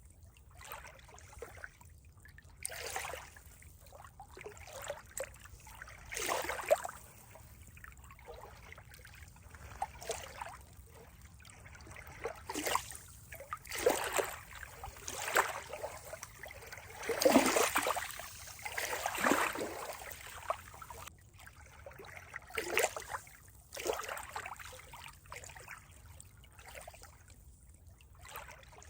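Water trickling and splashing in irregular surges, a burst every second or two, with the fullest splashes about halfway through.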